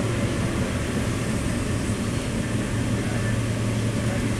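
Inside the carriage of a moving Southeastern commuter train: a steady low hum under an even rushing noise from the train running along the track.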